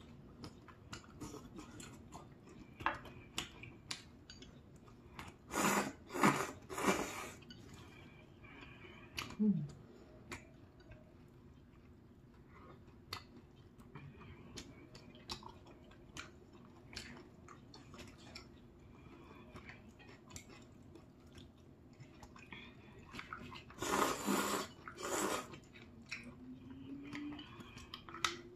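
Close-up eating sounds as people chew instant ramyeon noodles and rice cakes, with small clicks of chopsticks and dishes. Two louder noisy stretches come about six and twenty-four seconds in.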